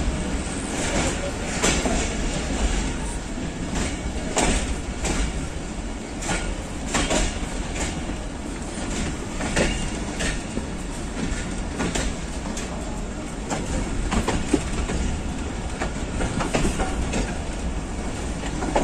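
Passenger train coach rolling out of a station: a steady low rumble from the running gear, with irregular clacks and knocks of the wheels on the rails.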